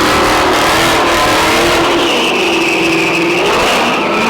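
Car engine revving hard at high rpm, the pitch wavering at first and then held steady and high from about halfway through.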